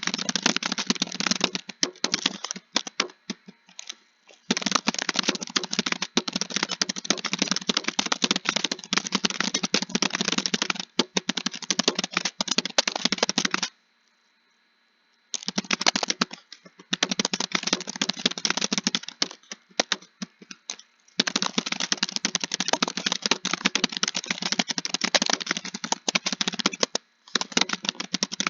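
Continuous typing on a computer keyboard: rapid key clicks in long runs, broken by short pauses, the longest about halfway through.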